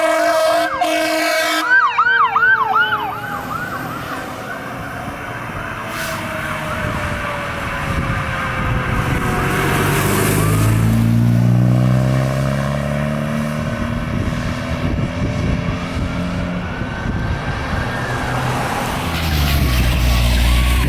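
Fire engine responding past with its warning devices: a steady air-horn blast that cuts off about two seconds in, a fast electronic siren yelp, and a siren tone winding slowly down. Then the truck's heavy diesel engine pulls past, its pitch rising and falling, and another siren starts yelping near the end.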